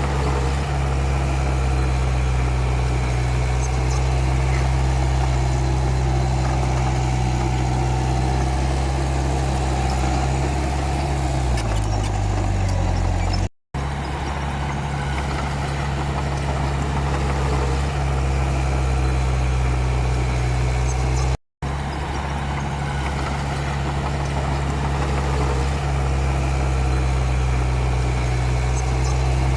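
Diesel engine of a Komatsu D31P bulldozer running steadily with a low hum. Its note drops about twelve seconds in, and the sound cuts out briefly twice.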